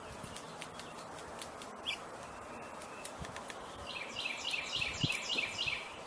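A songbird sings a fast run of about eight identical high notes, roughly four a second, starting about two-thirds of the way in. Scattered faint clicks sound earlier over a steady outdoor background.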